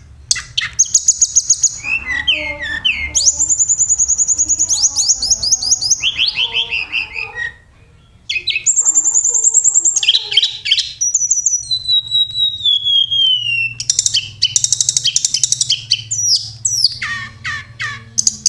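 Tledekan gunung (sulingan) songbird singing: rapid high-pitched trills and chirping phrases, repeated with short pauses, and a long falling whistle about twelve seconds in. A steady low hum runs beneath.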